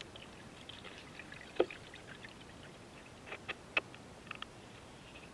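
Kayak paddle dipping and pulling through calm water, with faint dripping and trickling and a few short, sharper splashes, one about one and a half seconds in and several more between three and four seconds in.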